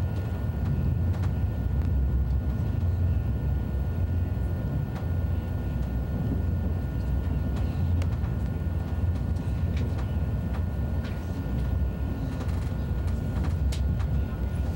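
Steady low rumble of an ICE high-speed train running, with faint scattered clicks and a thin steady whine above it.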